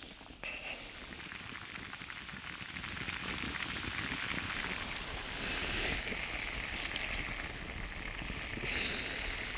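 Risotto rice simmering in a pan over a campfire at full heat, a dense sizzling and bubbling that grows louder about three seconds in.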